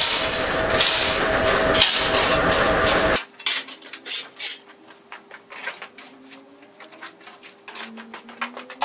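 A loud, steady rushing noise with a hum runs for about three seconds and cuts off suddenly. Then come quieter, irregular hammer taps on iron, each leaving a faint metallic ring.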